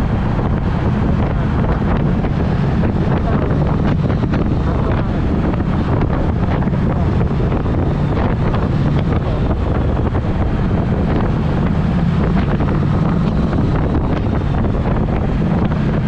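Wind rushing over the microphone of a moving motorcycle, with the Triumph Speed Twin's engine running steadily through its Vance & Hines exhaust underneath.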